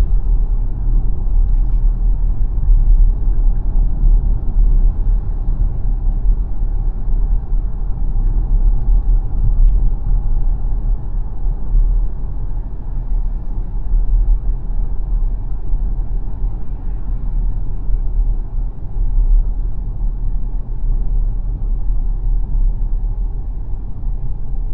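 Steady low road and tyre rumble from a moving XPENG G9 electric SUV, with no engine note.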